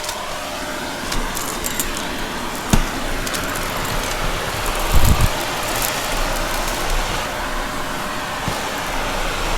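Vacuum cleaner running steadily while sucking up crunchy debris, with scattered sharp clicks and a low thump about five seconds in.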